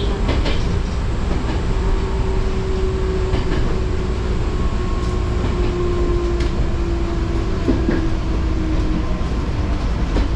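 Fujikyuko Line electric train running, heard from inside, with a steady low rumble. Its motor whine slowly falls in pitch as the train slows, and a few sharp clicks come from the wheels over rail joints.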